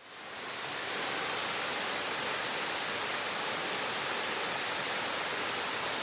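Waterfall rushing in a steady, dense roar of falling water, fading in over the first second.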